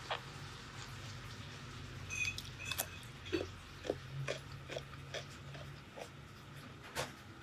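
Close-miked chewing of crisp food: irregular wet crunches and mouth clicks, about a dozen over several seconds, the sharpest near the middle and just before the end.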